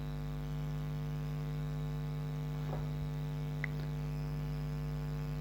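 Steady electrical mains hum with a stack of even overtones, broken only by a couple of faint ticks.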